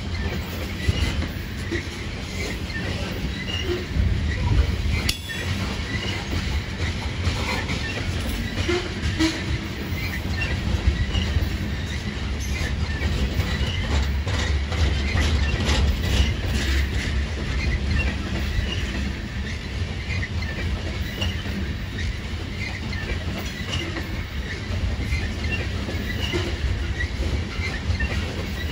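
A coal train's freight cars rolling past at steady speed: a continuous low rumble with wheels clicking and clacking over the rail joints.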